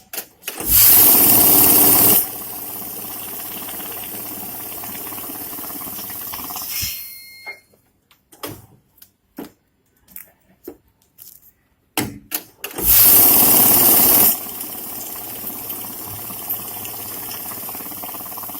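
Glory GNH-710 banknote counting machine running two counts. Each opens with about a second and a half of notes riffling loudly through the feed, then the motor keeps running steadily for several seconds; the first count stops with a short beep. Between the counts there are a few clicks and knocks.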